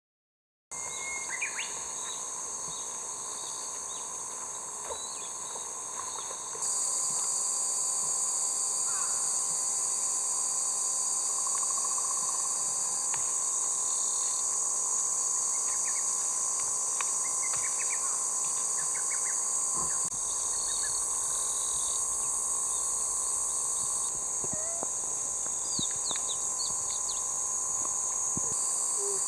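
Steady high-pitched drone of summer insects, with short bird chirps and calls scattered through it. The drone gets louder about seven seconds in and shifts slightly a few more times.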